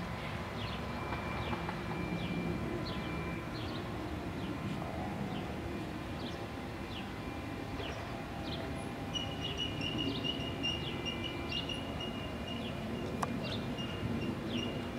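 Short, high, falling chirps of small birds repeating about twice a second over a steady low rumble; from about nine seconds in, a thin steady high tone joins them.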